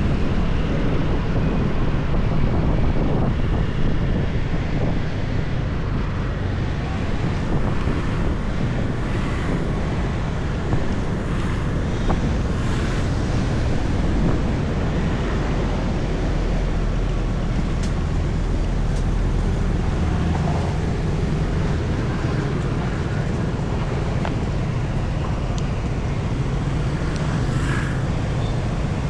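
Wind buffeting the microphone on a moving motorbike, over a steady low rumble of engine and road noise.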